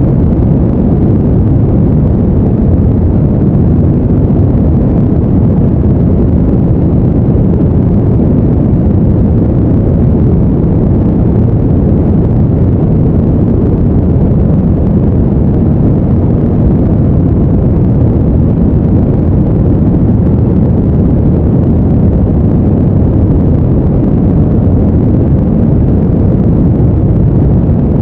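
Steady, deep noise that never changes or pulses, heavy in the low end and thin in the highs: a brown-noise sleep background.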